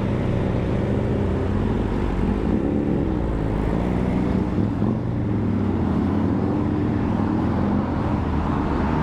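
Motorcycle under way at road speed: the Honda CBR600RR's inline-four running steadily, its pitch drifting slightly, mixed with wind and road noise.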